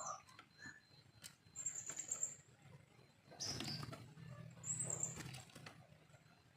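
A young wild-caught Oriental magpie-robin (kacer) gives short, high, thin call notes four times, amid scattered soft knocks and rustling.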